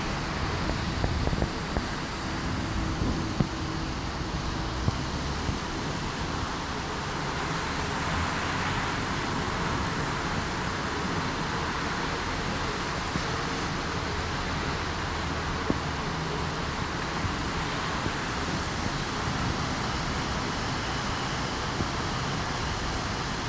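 Steady hiss of heavy thunderstorm rain, with scattered sharp ticks.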